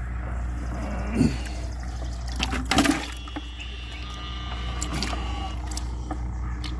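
Water sloshing and splashing as fish are tipped from a bucket into a pond, with sharper splashes about a second in and again around three seconds in, over a steady low hum.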